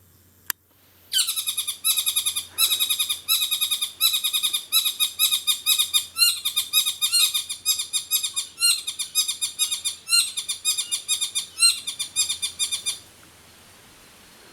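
A bird calling close by: a long, loud run of rapid, evenly repeated chattering notes, about eight a second, broken into a few runs by short pauses and stopping suddenly near the end.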